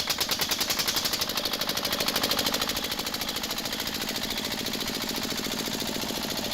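Small single-cylinder engine of a miniature model tractor running just after starting, its firing a rapid, even stream of pulses that quickens early on and then holds steady.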